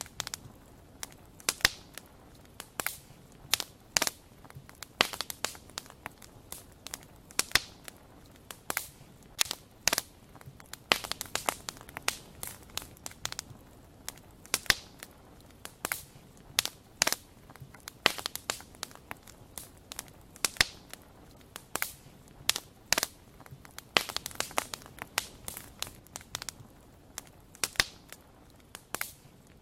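Campfire crackling: irregular sharp pops and snaps, several a second, over a faint steady background of burning.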